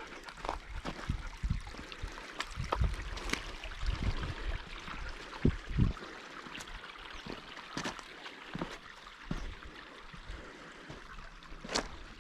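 A creek running steadily, with irregular knocks and low thumps of footsteps on rocks. The loudest are two heavy thumps about halfway through.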